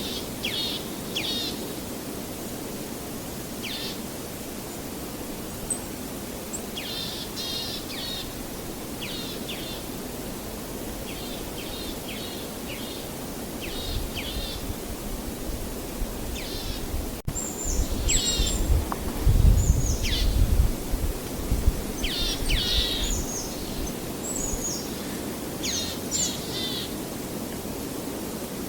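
Songbirds chirping in quick runs of short, falling notes over a steady rushing background. A low rumble swells from about halfway and peaks around two-thirds of the way through.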